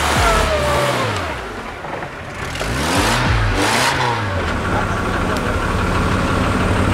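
Off-road vehicle's engine revving, its pitch rising and falling several times, then settling into a steady run.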